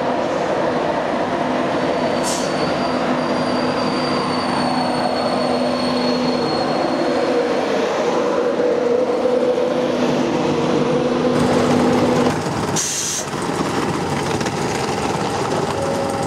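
Virgin Trains East Coast InterCity 225 electric train with Mark 4 coaches running along the platform: a steady rumble of wheels and traction with a low hum, and a thin high-pitched wheel squeal from about two seconds in for several seconds. About twelve seconds in the sound changes abruptly to a quieter train noise.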